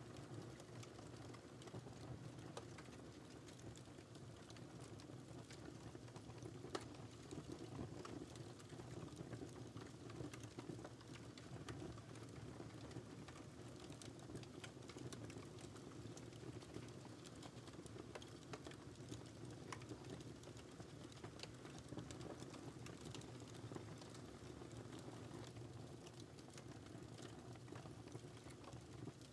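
Wood fire crackling in a fireplace: a steady low rumble of flames with many small irregular pops and snaps, one slightly louder about seven seconds in.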